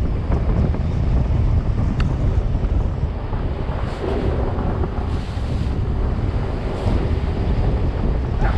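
Hurricane-force wind buffeting the microphone in a steady, heavy rumble, with surf breaking.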